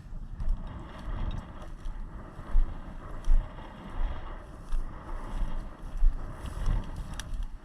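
Wind buffeting the microphone over rustling and irregular low thumps of footsteps, as of a hunter walking through field cover.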